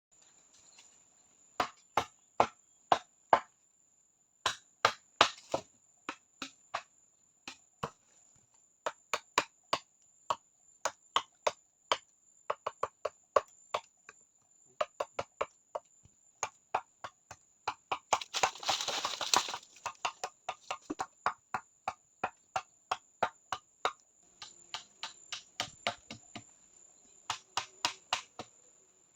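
Sharp knocks of a tool striking hard wood, in irregular runs of quick blows, often three to five a second, with a brief rasping scrape about two-thirds of the way through. A steady high-pitched tone continues underneath.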